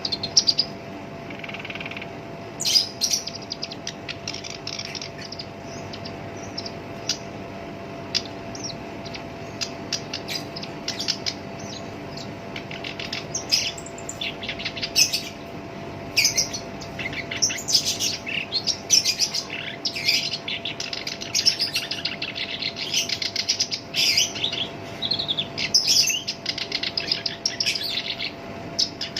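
Black-browed reed warbler singing a fast, harsh, chattering song of rapid scratchy phrases, busier and denser in the second half.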